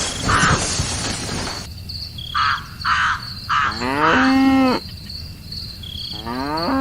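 A cow moos once, a long call about four seconds in, and a second moo begins near the end. Around it are steady high cricket chirps, a few short harsh calls, and a burst of hiss at the start.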